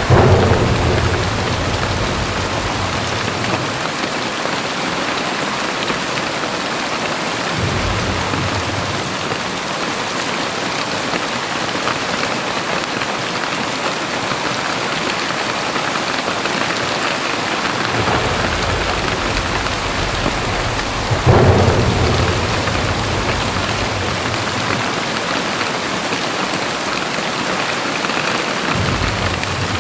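Very heavy rain pouring steadily, with thunder: a sharp clap at the start and another about two-thirds of the way through, and lower rumbles rolling in between.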